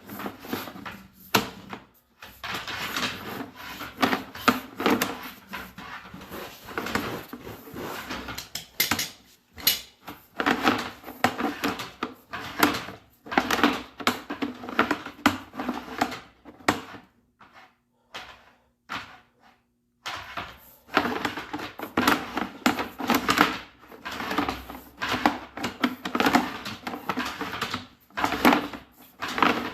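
Irregular clattering, knocking and rubbing, in clusters with a short lull about two-thirds of the way through: a sewer camera's push cable being worked into the plumbing stack.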